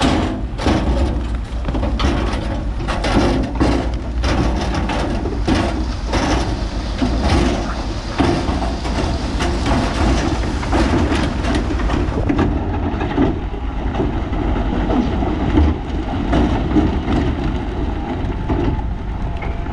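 Heavy diesel earthmoving machinery running under load, with many rapid knocks and clatters of rock and steel. The knocking is densest through the first two-thirds and thins out toward the end.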